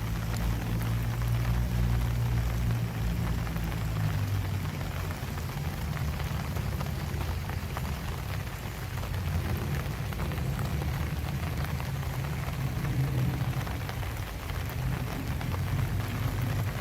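Steady rain falling, a dense even patter of drops, with a low rumble underneath that is strongest in the first few seconds.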